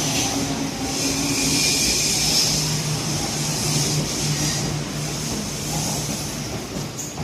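Odakyu electric commuter train running along the station platform: steady wheel-on-rail noise with a held motor hum and a high hiss, easing off a little near the end.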